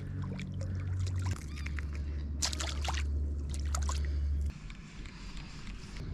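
Water splashing and sloshing, over a loud, steady low drone that drops lower about a second in and stops abruptly about four and a half seconds in.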